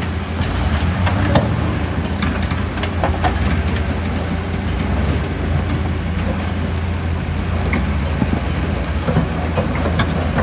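Excavator's diesel engine running steadily, with scattered knocks and clatter of rock.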